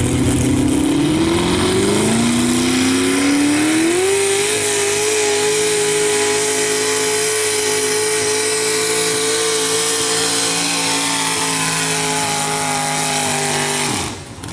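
Pulling truck's engine at full throttle under load, its pitch climbing over the first few seconds and then held at high revs for about ten seconds, as the truck drags a weight-transfer sled down the track. The sound cuts off abruptly near the end.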